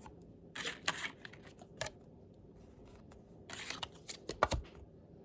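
A deck of oracle cards being shuffled and handled, in short bursts of flicking and rustling: about half a second in, near two seconds, and again for about a second near the end.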